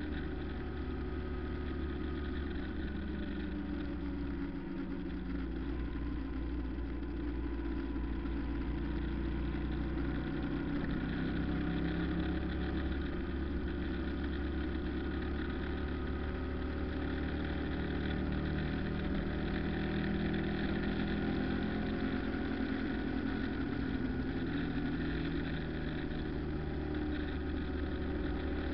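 Car engine running steadily while driving, heard from inside the vehicle with road rumble, its pitch shifting a little now and then.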